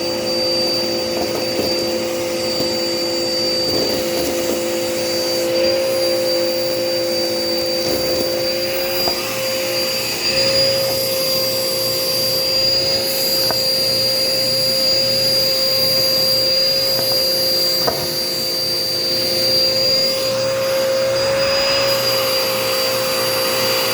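Dirt Devil Power Max vacuum cleaner running steadily, its motor giving a constant whine over the rush of air. A lower tone in the whine drops out about ten seconds in.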